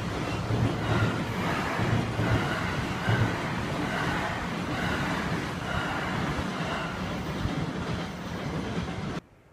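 Container freight train rolling past, its wheels clattering over the rail joints in a steady rhythm about once a second. The sound cuts off abruptly near the end.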